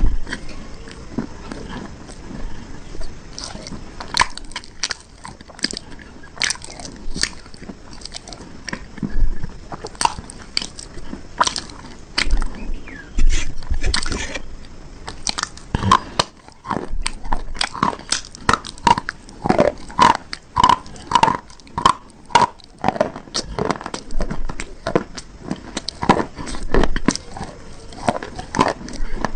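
Close-up biting and chewing of hard, brittle cube-shaped bars: a long run of crisp, irregular crunches and snaps, some coming in quick clusters.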